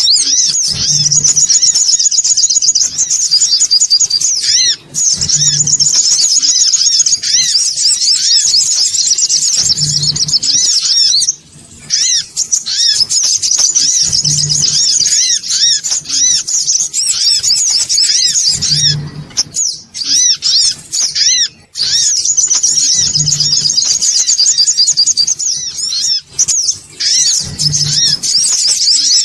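Recorded sunbird (songon otong) lure call: a dense run of fast, high-pitched chirps and twitters that pauses only briefly a few times. A short low hum repeats about every four and a half seconds underneath.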